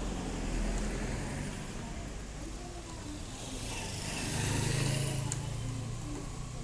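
A motor vehicle passing by, its noise and low hum swelling to a peak about five seconds in and then fading.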